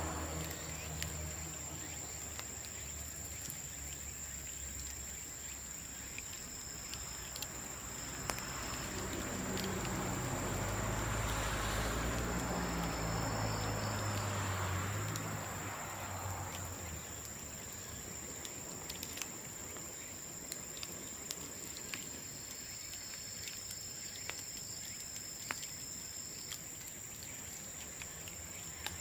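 Bamboo bonfire crackling with scattered sharp pops, over a steady high-pitched insect drone. A low engine rumble swells in the middle and fades away.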